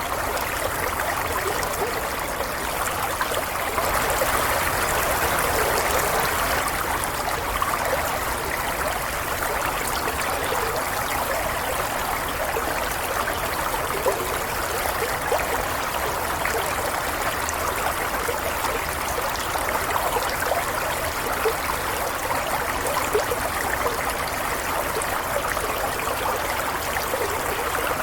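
Stream water flowing and trickling steadily, a little fuller for a few seconds near the start.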